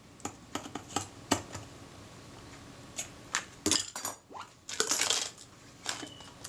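Scattered light metallic clicks and clinks of small tools and camera parts being handled on a workbench, as a Kodak Retina IIIc mechanism is refitted with a thinner shim washer and its action tried. One sharper click about a second in, and a denser patch of clicking about five seconds in.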